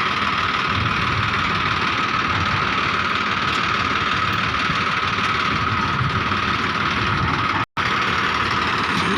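Tractor diesel engine running steadily; the sound cuts out for an instant near the end.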